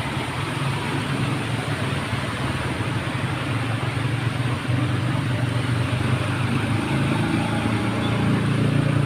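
A motor vehicle engine running steadily under a constant rushing noise, growing a little louder about halfway through.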